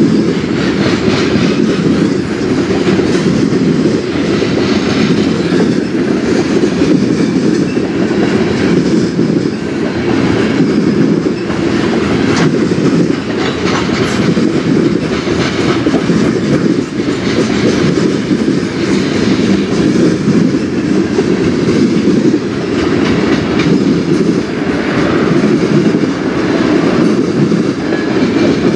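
Freight train of covered hopper cars rolling past: a steady, loud rumble of steel wheels on rail with an uneven clickety-clack of wheels over rail joints.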